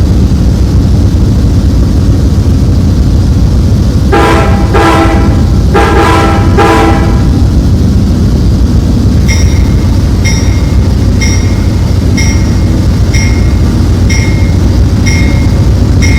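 A train running close by with a loud, steady low rumble. Its multi-tone horn sounds four blasts, then a bell starts ringing about once a second.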